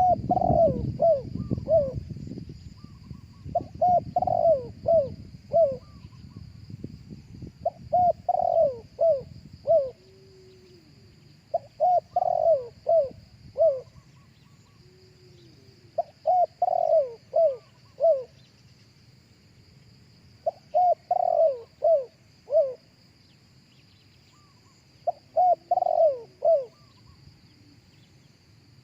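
Spotted dove cooing: a phrase of about five coos repeated roughly every four seconds, seven times over. A low rumbling noise lies under the first several seconds.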